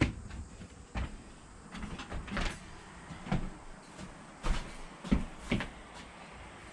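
A handful of irregular light knocks and thuds, roughly one every second, with quiet background between them.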